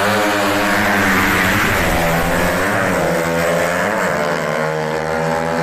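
Underbone drag-racing motorcycle engine being revved, its pitch rising and falling several times over a steady lower drone.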